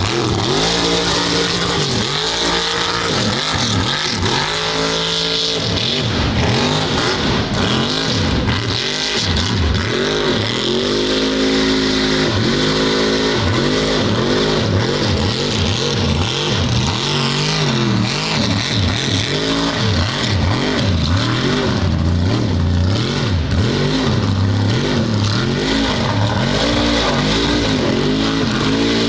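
Mud truck engine revving hard over and over, its pitch climbing and dropping every second or so, over a steady wash of noise.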